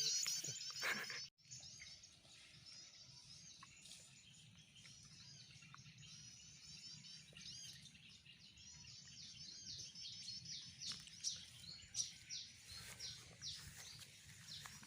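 Small birds chirping in quick repeated high phrases. The chirping is loud for the first second, breaks off abruptly, then carries on fainter and builds again toward the end.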